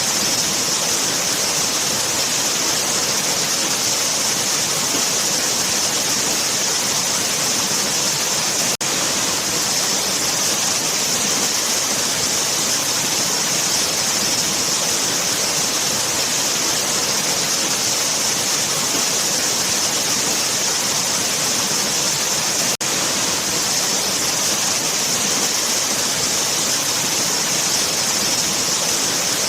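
Waterfall: a steady, unbroken rush of falling water with a bright hiss. The sound briefly drops out twice, about nine and twenty-three seconds in.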